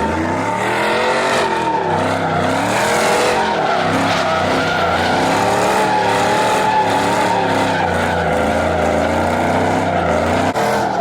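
A car spinning its wheels: tyres squealing steadily while the engine revs rise and fall over and over.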